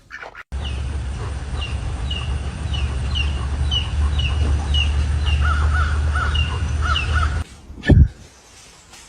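A bird calling over and over in short falling calls, about two a second, joined later by a second, lower run of calls, over a steady low rumble like wind on the microphone. A single loud thump comes near the end.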